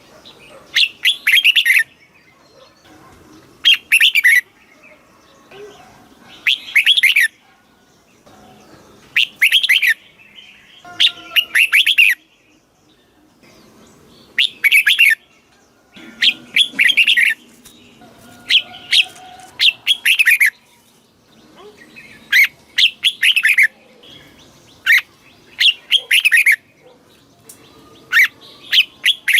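Red-whiskered bulbul singing: short, bright warbling phrases, each about a second long, repeated every two to three seconds.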